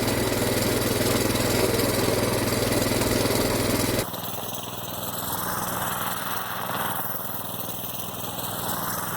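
Coleman BT200X mini bike's small single-cylinder four-stroke engine running steadily while riding. About four seconds in, the sound drops suddenly to a quieter, steady engine hum with a faint hiss.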